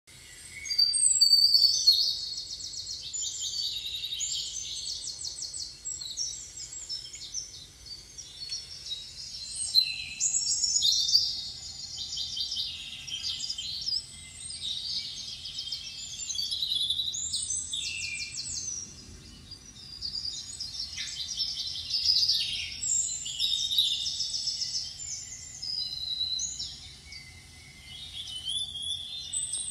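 Birds singing: a continuous, varied run of high, rapid trills and chirps in short phrases.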